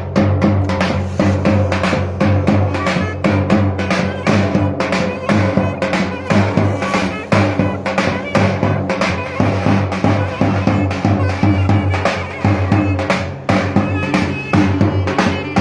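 Turkish davul drum and clarinet folk dance music, the drum beating a fast, steady rhythm under sustained melody tones.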